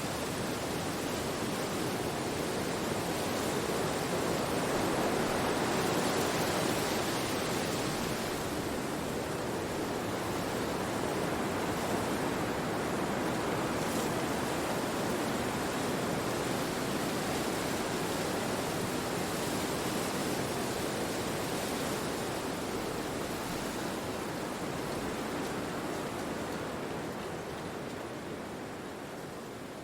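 Wind rushing steadily through forest trees, swelling a few seconds in and easing off near the end.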